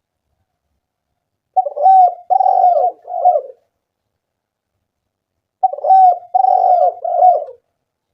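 Spotted dove (tekukur) singing: two phrases of three or four low, throaty coos each, a few seconds apart.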